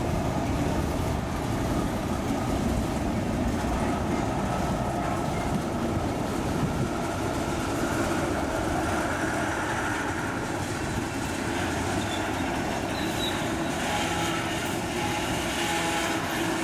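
Train rolling past, a steady rumble of wheels on the rails with some clickety-clack, and faint steady tones coming in near the end.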